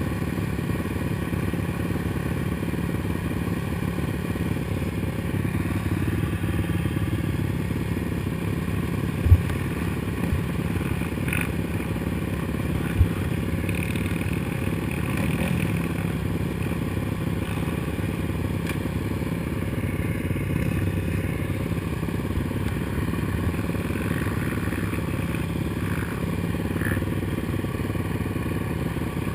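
Suzuki LTR 450 quad's single-cylinder four-stroke engine running steadily under throttle, with two sharp low thumps, about nine seconds in and again some four seconds later.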